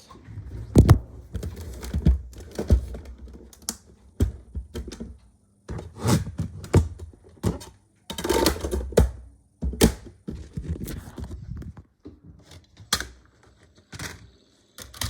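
Irregular clicks and dull thunks of a computer keyboard being typed on.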